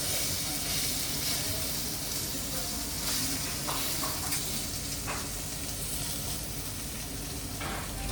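Food sizzling steadily as it fries, with a few light clicks.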